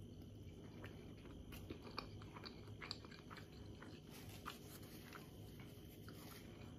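Faint close-miked chewing of a steamed manti dumpling with sour cream: soft mouth sounds with scattered small clicks.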